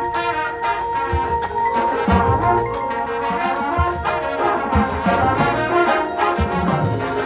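A high school marching band playing, with sustained brass chords and percussion hits underneath.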